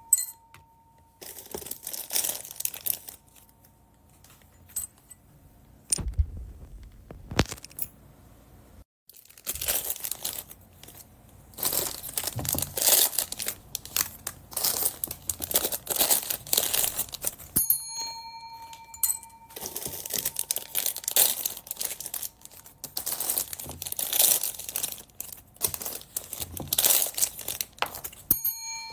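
Plastic bags crinkling and tearing in irregular bursts as bagged beads and charms are handled and opened. A short, steady bell-like ringing tone sounds about two-thirds of the way through.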